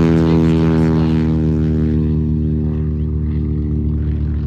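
P-51 Mustang's Rolls-Royce Merlin V-12 engine at full power on a low pass, a deep steady drone that grows fainter in the second half as the plane moves away.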